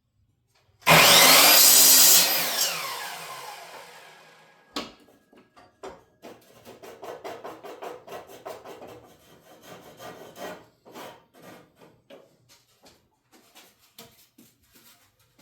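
Power saw cutting through wood for about a second and a half, then its motor spinning down with a falling whine. Afterwards, knocks and rubbing as wood is handled.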